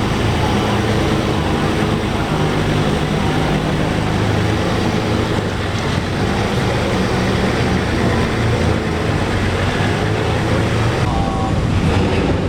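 Car engine and exhaust running steadily at low revs as a modified car moves at walking pace.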